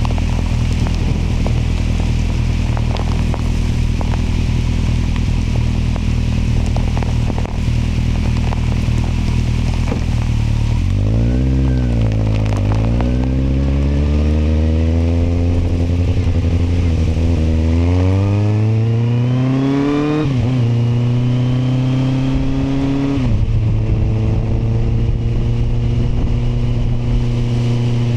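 Kawasaki motorcycle engine cruising at a steady note, then slowing with a falling pitch about eleven seconds in before accelerating again with a rising note. It shifts up twice near the end, with a sharp drop in pitch at each shift, and settles back into a steady cruise.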